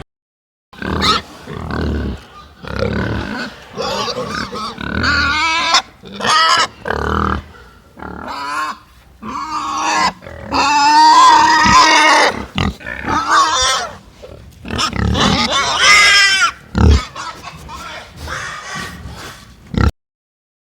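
Pigs grunting in a rapid string of short calls, with several longer, higher-pitched wavering calls in the middle.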